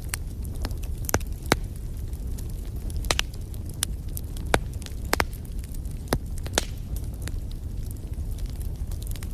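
Wood fire in a fireplace crackling: irregular sharp pops, a dozen or so, over a steady low rumble.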